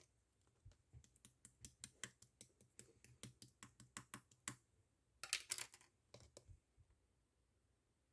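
Marbled slime being squeezed and pressed by hand, giving a quick run of small clicks, then a denser crackling cluster about five seconds in, and a few last clicks.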